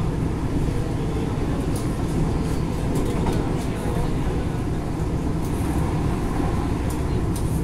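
Electric commuter train of the Mitre line's Tigre branch running, heard from inside the carriage: a steady low rumble with a few sharp clicks scattered through it.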